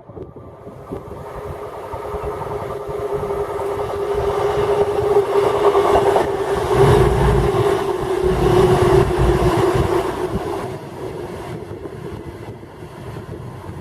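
A train passes close by. Its steady hum and wheel rumble build to a peak in the middle, with heavy low thuds as it goes by, then fade away.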